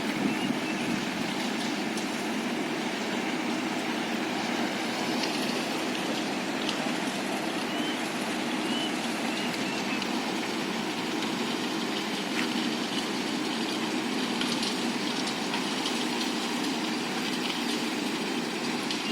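Loaded dump truck's diesel engine running steadily under load.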